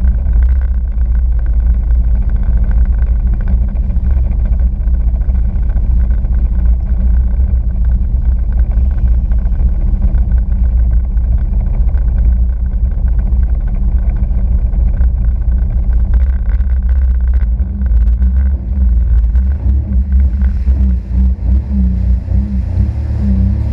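Sea-Doo RXP-X 260 jet ski's supercharged three-cylinder four-stroke engine running steadily under way, a loud low drone. The loudness dips briefly a few times near the end.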